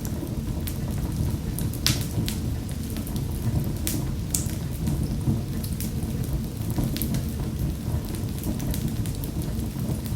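Wood fire crackling in a fireplace: a steady low rumble of burning with irregular sharp pops and snaps.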